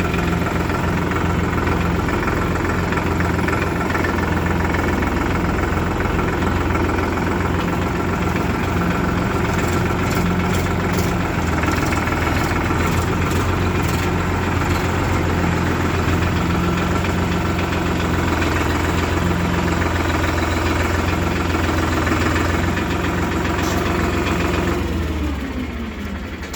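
Diesel engine idling steadily, then shut off about 25 seconds in, its note falling as it winds down.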